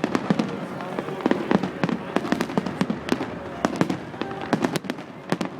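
Fireworks going off: a rapid, irregular run of sharp cracks and pops, several a second, over a steady background noise.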